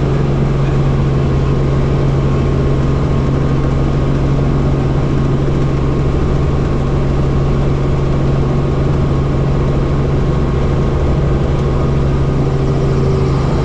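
Helicopter running steadily, a constant loud engine and rotor drone with a strong low hum.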